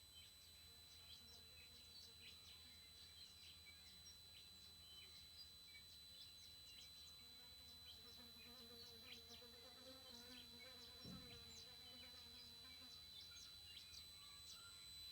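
TriStar TS-MPPT-60 solar charge controller giving off a faint, steady, high-pitched squeal, a fault that shows up as the controller moves between its MPPT and absorption charging stages. Birds chirp over it.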